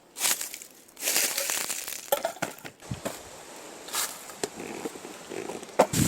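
Dry fallen leaves crunching and crackling in irregular bursts underfoot as someone walks through them.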